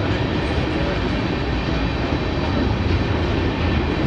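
Freight train cars, tank cars followed by a boxcar, rolling past at close range: a steady noise of steel wheels running on the rails.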